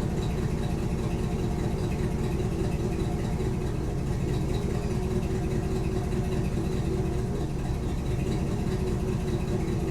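Chevrolet 350 small-block V8 idling steadily.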